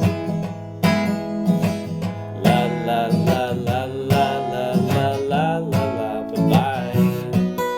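Acoustic guitar strumming a country-style tune; from about two and a half seconds in, a wavering melody line joins over the strums.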